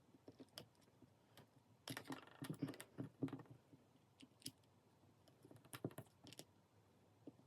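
Faint, scattered clicks and taps of small plastic opening tools being handled against a phone during disassembly. There is a cluster of them about two to three and a half seconds in and a few more near six seconds.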